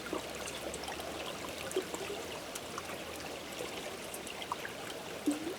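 Small brook trickling steadily, with a few faint ticks.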